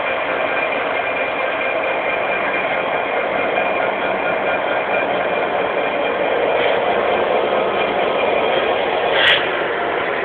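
Class 66 diesel locomotive's EMD two-stroke V12 engine running steadily, swelling a little in level about two-thirds of the way through. A brief sharp noise comes near the end.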